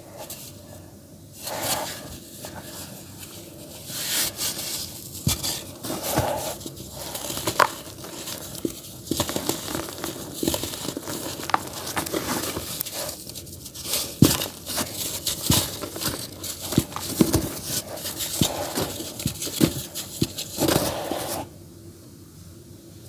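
Dry earthy dirt being crumbled and crushed by hand in a tub: dense, irregular gritty crackling and crunching with many sharp snaps, quieter for the first second or so and near the end.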